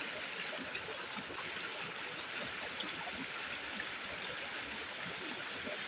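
Steady noise of water, even and unbroken, with many small scattered ticks in it.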